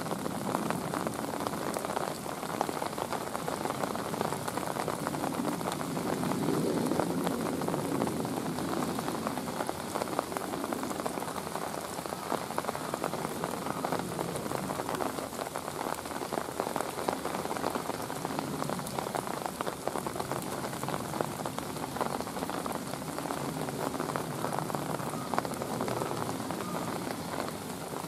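Steady rain falling, a dense hiss of many small drops ticking on hard surfaces.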